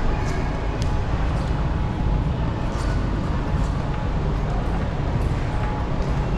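Steady low rumble of vehicle and traffic noise, with a few faint ticks.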